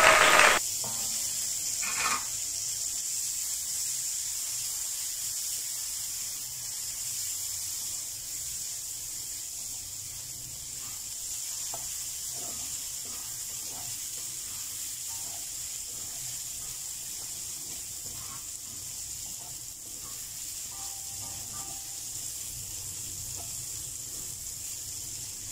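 Mixed vegetables and diced hotdogs sizzling in hot oil in a wok, loudest for the first half second as the vegetables go in. A wooden spatula stirring them scrapes and taps the pan now and then.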